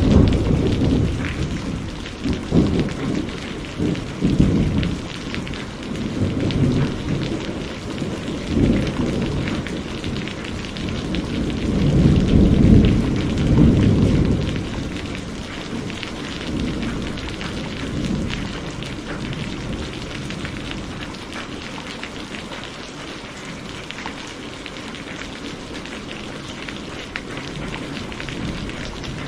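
Steady heavy rain with rolling thunder. Rumbles come and go through the first half, the longest and loudest peaking about twelve to fourteen seconds in, then the thunder dies away and the rain carries on alone.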